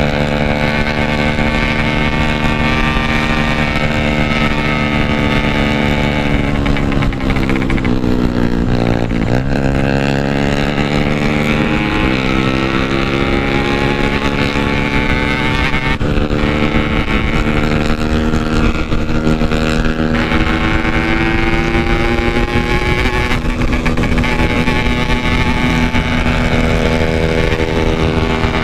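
Yamaha RX-King 135cc single-cylinder two-stroke engine running hard while riding. Its pitch drops as the bike slows about six to nine seconds in, then climbs again as it picks up speed.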